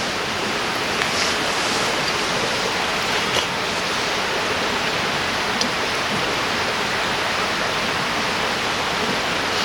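River water rushing steadily over the riverbed, with a few short ticks.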